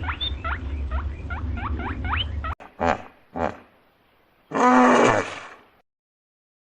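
Animal calls: a quick run of short rising squeaks over a low rumble, cut off sharply; then two brief calls and one loud, harsh call about a second long, after which the sound stops.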